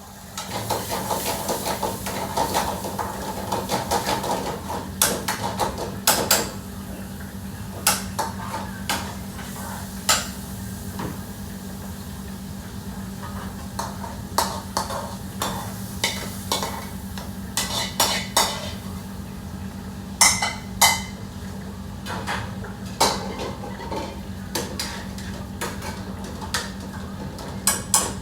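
Metal utensils clanking and scraping against pots, pans and dishes in a busy kitchen, with many sharp irregular clinks. Food sizzles in the pan mostly during the first few seconds, over a steady low hum.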